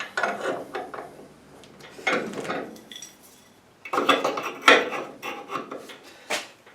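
A homemade metal exhaust hanger bracket being bent by hand: bursts of metal clanking and scraping, with a sharp knock near the end.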